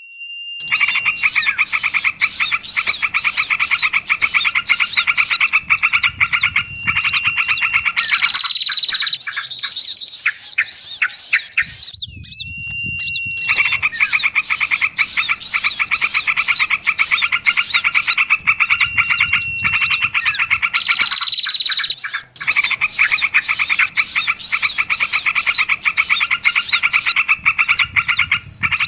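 Bird-lure recording of many small songbirds calling at once: a dense, loud chorus of rapid chirps and trills, with a held whistle note that recurs. The mix repeats about every 13 seconds.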